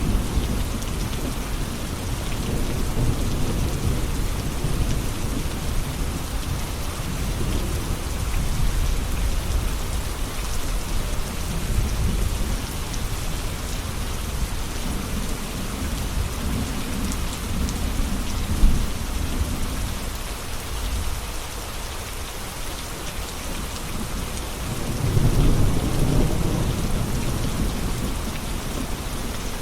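Steady heavy rain falling, with low rolling thunder rumbling underneath that swells and fades, loudest about 25 seconds in.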